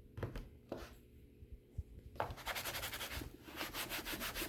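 A small hand scraper rubbing sticky residue off a laptop's casing: a few light scrapes, then from about halfway in a quick, steady run of short back-and-forth strokes.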